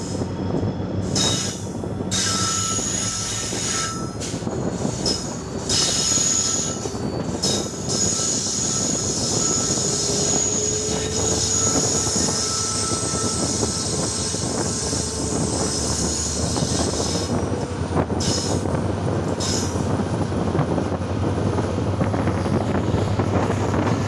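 Passenger train running over the rails, heard from a coach window, with high steady wheel squeal coming and going over the rumble and clatter of the wheels as the train rounds a curve.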